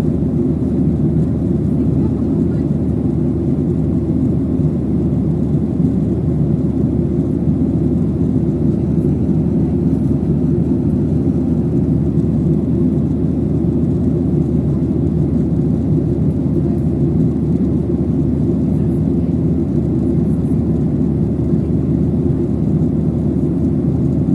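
Steady low-pitched cabin noise of an airliner climbing after takeoff: engine and airflow noise heard from inside the passenger cabin, even throughout.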